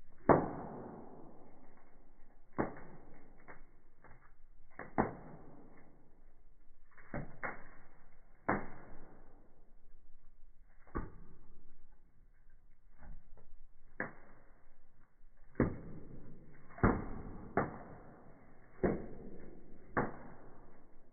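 Wood fire in a fireplace crackling, with sharp irregular pops a second or two apart; the loudest comes just after the start.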